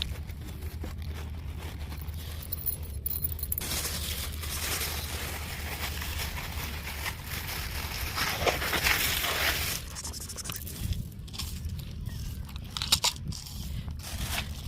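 A cat crunching and chewing, in short clicky bites that grow denser in the second half, with a stretch of rustling in the middle and a steady low hum underneath.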